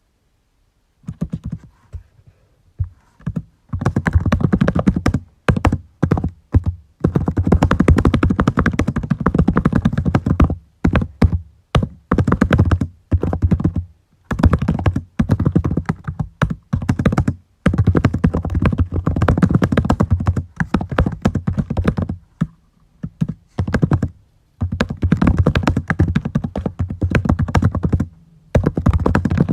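Typing on a computer keyboard: fast runs of key clicks broken by short pauses, starting about a second in.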